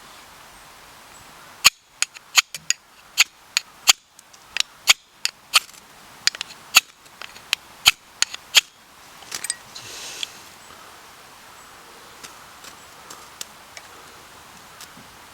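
Cooking over a campfire: a run of loud, sharp, irregular pops and crackles lasting about seven seconds, followed by a short hiss and a few faint ticks.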